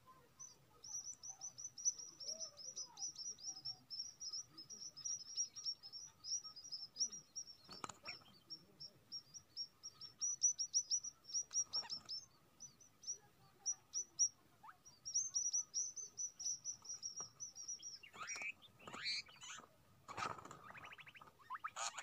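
Small birds chirping in a fast, high-pitched stream of short notes. Over the last few seconds come louder, harsher calls that sweep up and down.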